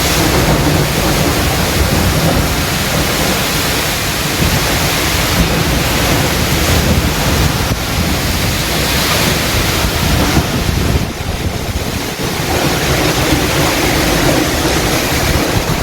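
Heavy wind and rain of a storm, a steady, loud rush with gusts buffeting the microphone.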